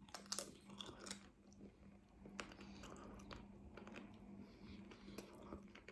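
Faint, close chewing of crunchy taco, with scattered small crunches and wet mouth clicks over a low steady hum.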